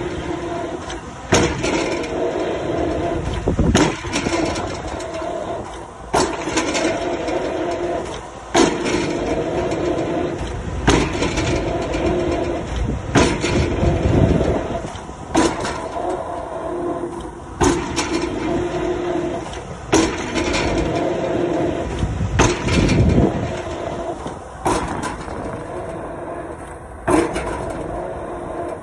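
Excavator drop hammer striking a square concrete pile about once every two and a half seconds, a dozen blows in all, over the steady drone of the excavator's diesel engine.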